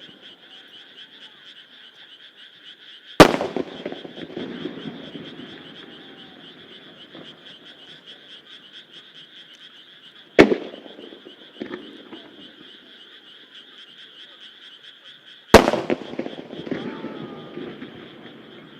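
Three large aerial firework shells burst one at a time, each a single sharp boom followed by a long rolling echo; they come about three, ten and fifteen and a half seconds in. A steady chorus of frogs croaking goes on underneath.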